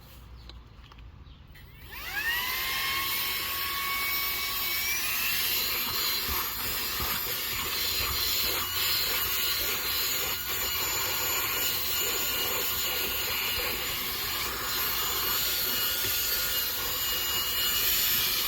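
ROIDMI cordless handheld vacuum switched on about two seconds in: its motor whine rises quickly and settles, steps up in pitch again a few seconds later, then runs steadily over a rush of air as it is worked over dog hair.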